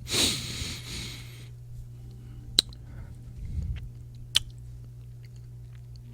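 Close-miked kissing sounds: a breathy rush in the first second or so, then a few sharp, wet mouth smacks spaced apart, over a faint steady hum.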